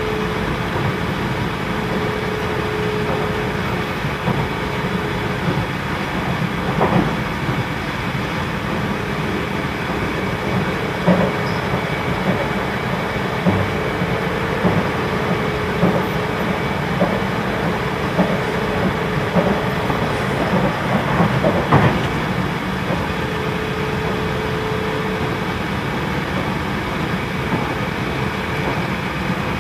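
Interior running noise of a JR Central 313-series electric train at speed. A steady rumble of wheels on rail sits under loud air conditioning, with a hum that comes and goes several times and occasional sharp rail clicks.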